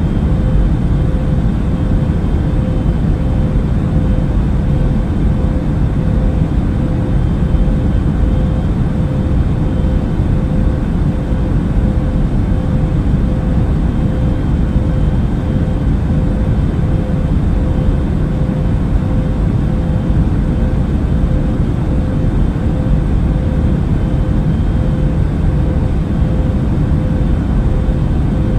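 Airplane cabin noise in flight: a steady, unchanging low rumble of engine and air noise with a constant hum running through it.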